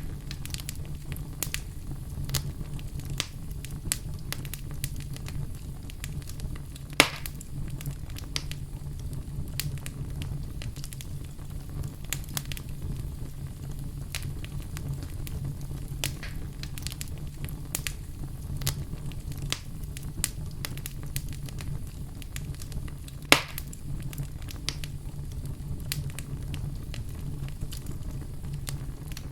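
Wood fire burning in a fireplace, crackling steadily over a low rumble, with two loud sharp pops, about a quarter of the way in and near the three-quarter mark.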